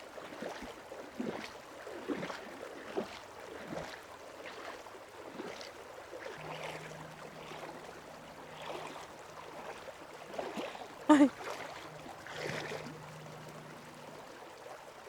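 River water flowing steadily, with scattered small clicks and knocks. A faint low steady hum comes in about halfway through and fades out near the end.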